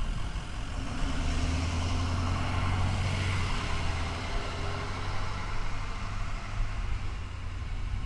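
A car passing on the road, its engine hum and tyre noise swelling to a peak about three seconds in and then fading away.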